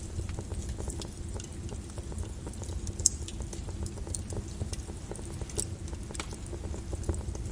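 Volcanic lava: a steady low bubbling rumble with scattered sharp crackles and pops, the loudest crack about three seconds in.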